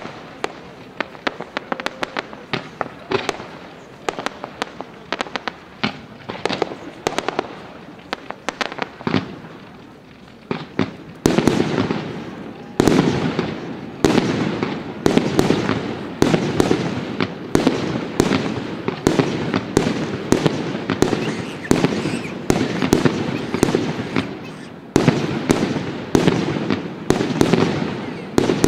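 Fireworks display: a rapid, steady run of shell bursts and crackling bangs, turning louder and much denser about eleven seconds in.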